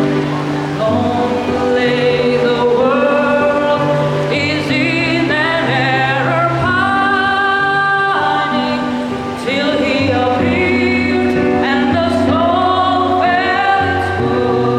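Children's choir singing a Christmas carol, with sustained sung notes over a steady low accompaniment that changes pitch every second or so.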